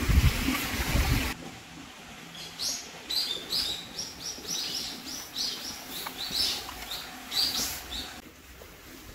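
A loud, low, rumbling sound cuts off abruptly about a second in. Small birds then chirp in short, high calls, two or three a second, stopping near the end.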